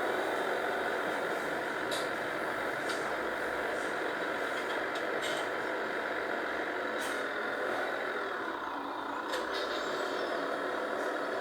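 A heavy engine running steadily under load, with short sharp clicks or knocks every second or two.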